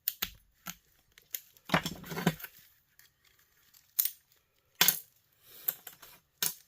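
Small metal and plastic parts from a dismantled electric heater clinking as they are handled and dropped: a string of sharp separate clicks, with a longer rattle about two seconds in.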